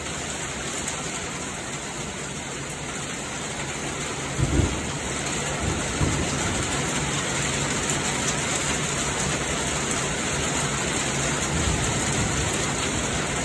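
Heavy storm rain falling steadily, with a short low thump about four and a half seconds in.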